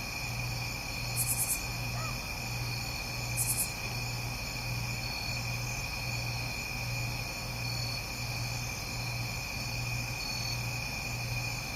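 Insects trilling steadily, with two short, very high chirp bursts about a second in and again a couple of seconds later. Under them runs a low hum that pulses about twice a second.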